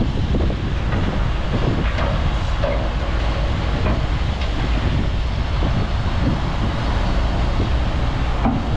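Bulldozer's diesel engine running steadily at work, a loud low rumble.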